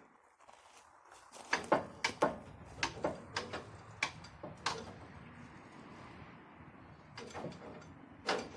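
Sharp knocks from a tool banging on the starter of a 1979 Ford Bronco's 400 V8, about ten quick strikes in a row, then a few more near the end. The starter is being struck to free it up.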